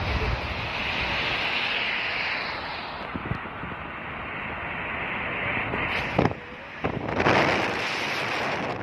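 Steady rushing road and wind noise of a vehicle travelling on a wet road in the rain. It drops briefly about six seconds in, then a louder rush comes about a second later.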